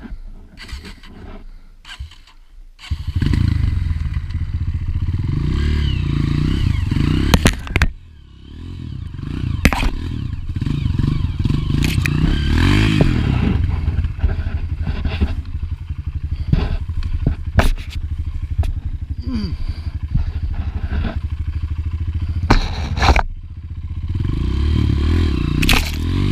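Honda four-stroke single-cylinder dirt bike engine revving hard, rising and falling, as it fights a muddy hill climb, with clattering knocks from the bike and track. It starts about three seconds in, after a quieter stretch of scattered clicks, and drops away briefly about a third of the way through before picking up again.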